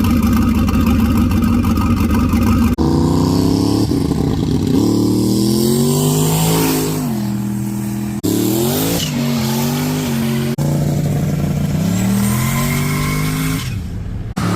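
Chevrolet Silverado pickup's engine and exhaust under hard acceleration, the engine note climbing and dropping several times, broken by a few abrupt cuts.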